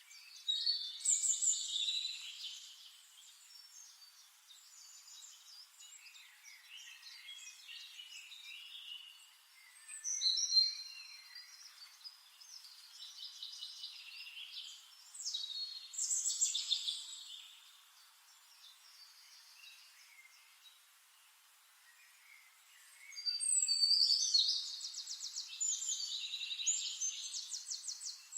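Songbirds singing in separate bursts of chirps and quick trills, with the longest, loudest stretch of rapid trills near the end.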